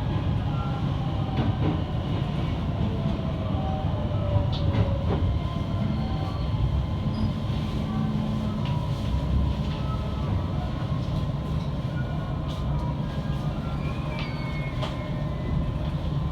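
Electric commuter train running along the line: a steady low rumble with scattered clicks from the wheels over rail joints.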